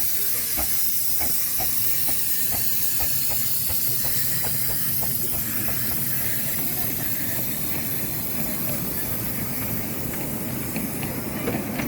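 Miniature steam locomotive hissing steam, with a quick regular beat of about three strokes a second that fades away about halfway through.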